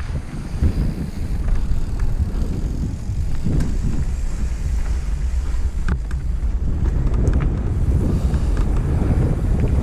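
Wind buffeting the microphone of a camera riding along on a mountain bike descent, a steady low rumble, with tyre and trail noise and a few short clicks and rattles from the bike.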